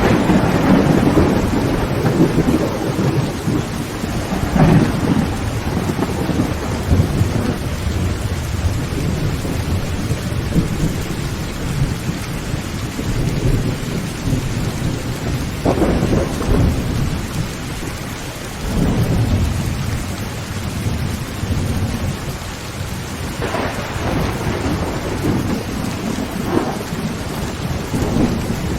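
Heavy rain drumming steadily on a tin tent roof, with thunder rumbling through it and several sharper claps, one near the start, others around halfway and near the end.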